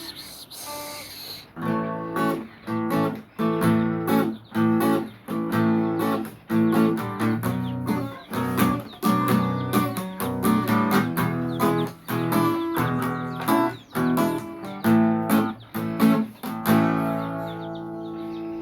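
Acoustic guitar strummed in a steady rhythm, about two chords a second, with the last chord left ringing near the end.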